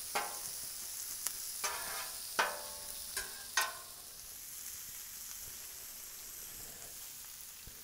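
Sliced onion sizzling in bacon grease on a Blackstone steel flat-top griddle. Metal spatulas scrape and clink on the griddle about five times in the first few seconds, then only the steady sizzle goes on.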